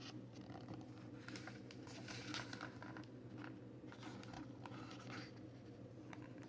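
Faint paper rustling with a few soft clicks, as of picture-book pages being handled and turned, over a steady low room hum.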